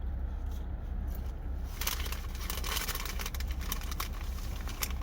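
Crinkling and crackling from McDonald's food and its packaging being handled and eaten close to the microphone, starting about two seconds in, over a steady low hum.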